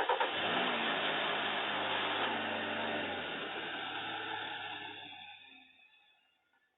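Car engine running, heard with hiss through a doorbell camera's microphone, fading out about five to six seconds in as the car pulls away.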